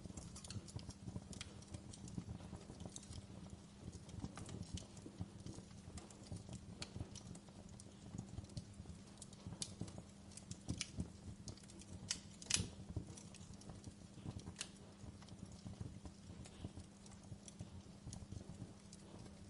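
Fire crackling in a fireplace: a steady low rumble of flames under frequent small crackles and a few sharper pops, the loudest about twelve seconds in.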